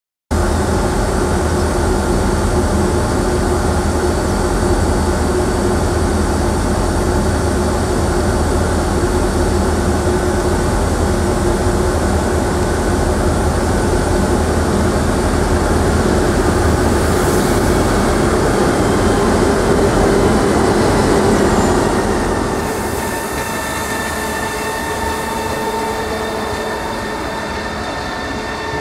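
A passenger train at a station, its machinery running with a loud steady rumble and several held humming tones. About 22 seconds in the low rumble eases off and the train runs on more quietly, still humming.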